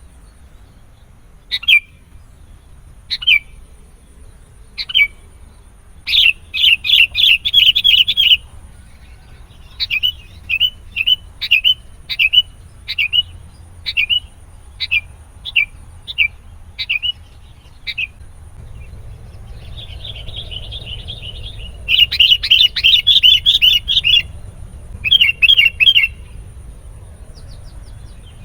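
Sooty-headed bulbul (kutilang) calling. It starts with single sharp chirps about every second and a half, then gives fast runs of rapid chirps, a stretch of evenly spaced chirps, and two more fast runs near the end.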